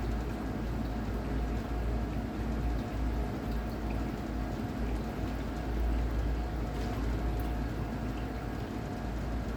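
Water splashing and gurgling against a small boat's hulls, over a steady low rumble and a faint steady tone.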